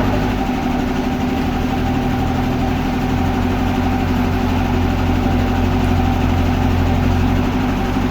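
An engine running steadily, with a deeper low drone coming in about three seconds in and easing off near the end.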